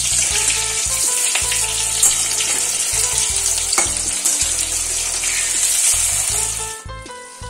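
Minced-chicken patties shallow-frying in oil in a kadai, sizzling steadily with a couple of sharp clicks. The sizzle drops away sharply near the end.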